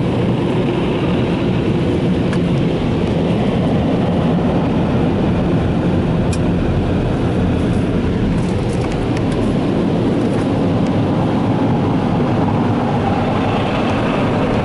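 Mark VII ChoiceWash XT touchless car wash's onboard dryer blowers blasting air over the car as the gantry makes its drying pass, heard from inside the car as a loud, steady rush.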